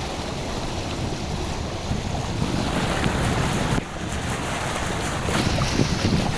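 A car driving through floodwater: a steady rushing wash of water with wind noise. It dips briefly about four seconds in and grows louder near the end.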